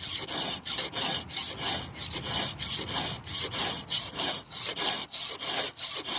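A hand file stroking across the cutting teeth of a chainsaw chain, metal rasping on metal in a steady rhythm of about three strokes a second.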